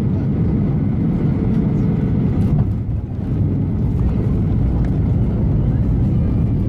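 Steady engine and airflow noise heard inside the cabin of a Boeing 737-800 with CFM56 engines, a low, even rumble with a faint steady hum above it. The level dips briefly about three seconds in.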